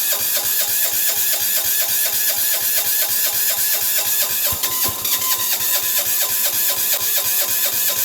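Small air-cooled single-cylinder 6 hp diesel engine cranked over by its electric starter in the frost, turning over evenly at about five compressions a second without catching. It is a hard cold start, pumping out unburnt, atomized diesel fuel.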